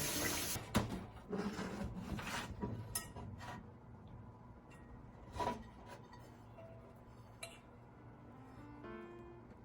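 Camp tableware and cookware being handled: a few separate light clinks and taps with quieter rubbing and scraping between them, the loudest clink about five seconds in.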